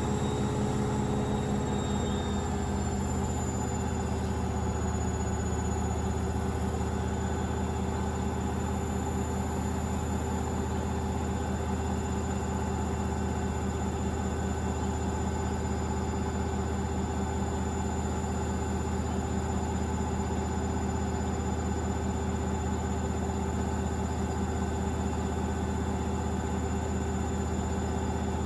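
Hoover VisionDynamic front-loading washing machine spinning steadily in its final 1000 rpm spin: an even motor hum and drum rumble with a faint high whine that drops slightly in pitch in the first few seconds.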